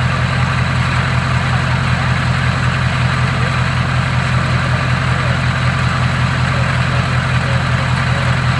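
Ford Powerstroke V8 turbodiesel in an F-250 idling steadily, with an even low pulse.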